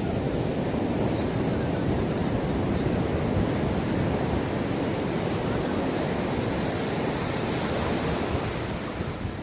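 Ocean surf washing on a beach: a continuous rush of waves, with wind buffeting the microphone.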